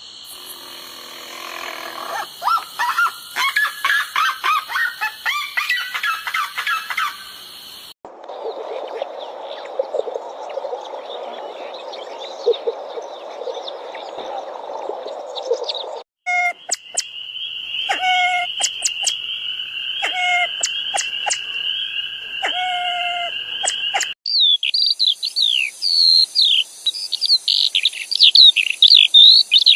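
Birds chirping and calling, in four different clips of about eight seconds each, cut together abruptly. The last clip is a fast run of high falling chirps.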